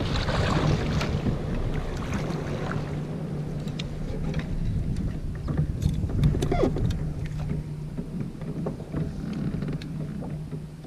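A steady low hum with small scattered clicks and knocks on a kayak on the water.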